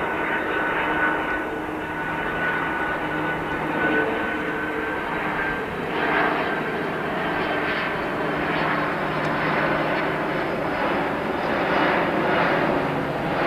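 Airbus A300-600R airliner's jet engines running as it comes in to land: a steady rushing noise with a thin high whine that fades about four seconds in.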